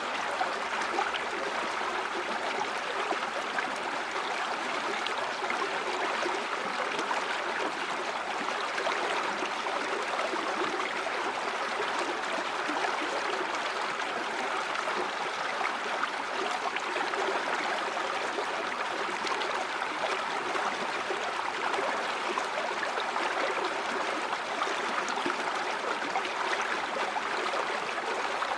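River water running steadily over rocks, an even rushing and burbling with no breaks.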